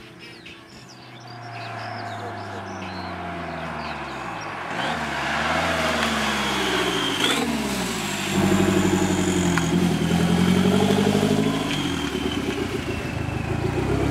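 Engine of a Fiat 127 fitted with a 2.0-litre 16-valve turbo engine, running at low speed and getting louder as the car comes close. The engine note dips and rises several times with the throttle, and is loudest toward the end as the car pulls up near by.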